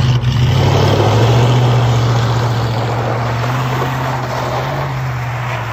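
1968 Dodge Charger's V8 engine running at a steady, even drone under load as the car drives along, with a hiss of tyres on gravel.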